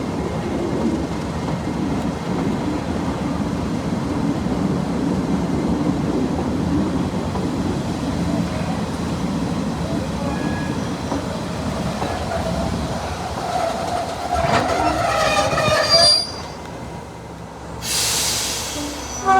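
Diesel-hauled passenger train running with a steady rumble as it comes into a station, then brakes and wheels squealing in several rising tones as it comes to a stand. A short hiss follows near the end.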